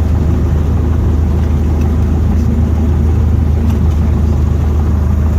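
Cessna 152's four-cylinder Lycoming O-235 engine and propeller running with a steady low drone.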